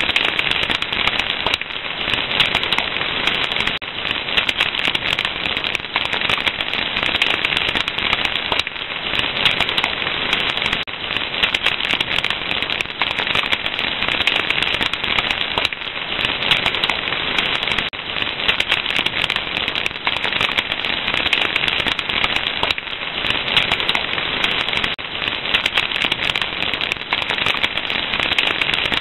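Wood fire crackling steadily, with a dense stream of small pops and snaps.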